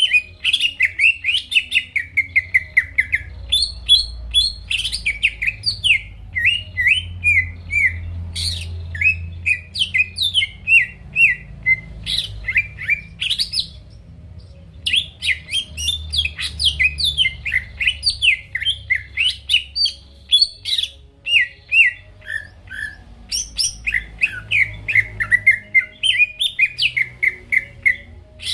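Green leafbird (cucak ijo) singing a long, fast, varied run of chirping notes, broken by one short pause about halfway through.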